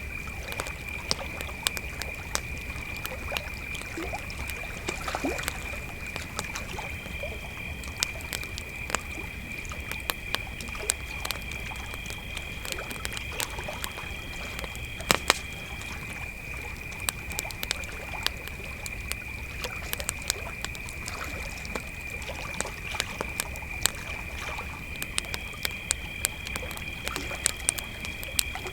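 Crickets chirping in a steady chorus, with a second, higher cricket joining in for stretches, over a crackling campfire that gives off frequent small snaps and a few louder pops, the loudest about halfway through.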